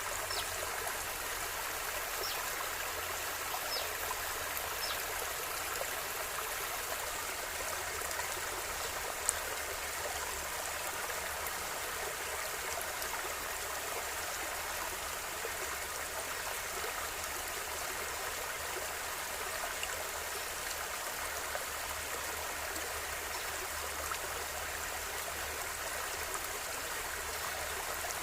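River water flowing in a steady, even rush. A few faint high chirps in the first few seconds, and a single sharp click about nine seconds in.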